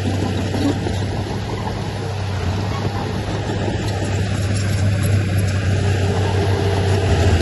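Heavy diesel engine of earthmoving machinery, a bulldozer or dump truck, running steadily with a low hum, growing a little louder in the second half.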